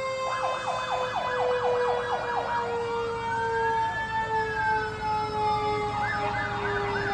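Fire truck sirens: an electronic siren cycling through a fast yelp, then one slow wail, then the fast yelp again, over a steady siren tone that slowly sinks in pitch.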